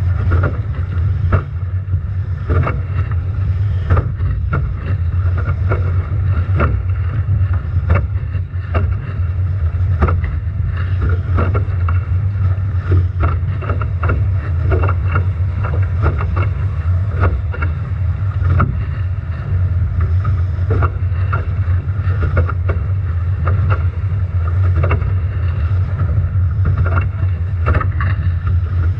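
Strong wind buffeting an action camera's microphone aboard a Nacra 17 foiling catamaran sailing upwind in a storm, a steady heavy rumble broken by frequent irregular slaps of waves and spray against the hull.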